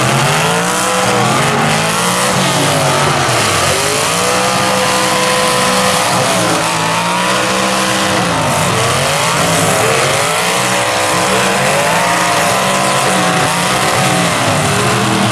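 Several full-size demolition derby cars' engines revving hard over and over, several pitches rising and falling at once, as the cars back up and ram in the dirt.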